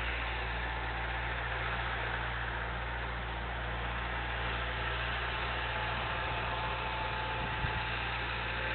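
Bobcat skid-steer loader's diesel engine running steadily at a constant speed, a low even drone, with one short click near the end.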